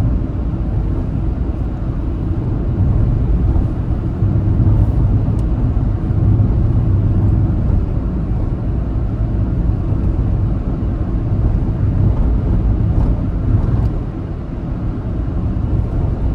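Car driving at highway speed: a steady low rumble of engine and road noise that swells and eases slightly.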